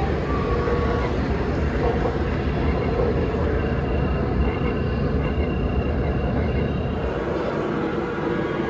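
Three-rail O gauge model trains running on a layout, a steady rumble of wheels on track, with the low rumble dropping away about seven seconds in.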